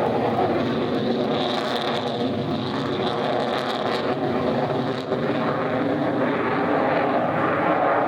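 Jet roar from the F-22 Raptor's twin Pratt & Whitney F119 afterburning turbofan engines during its display, loud and steady with a pitched hum running through it.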